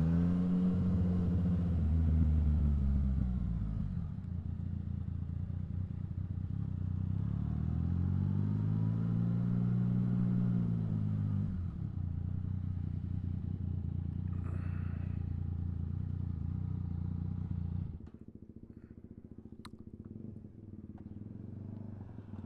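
Yamaha XSR900's three-cylinder engine under way, its revs rising and falling twice over a steady drone. The engine sound drops to a much quieter level about eighteen seconds in.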